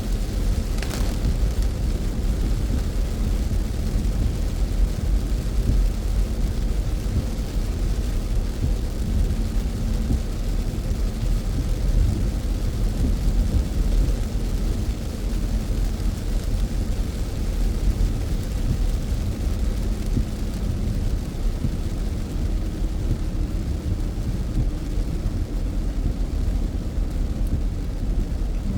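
Steady rain and wet-road tyre noise heard from inside a moving car, over a low hum from the car, with a single click about a second in.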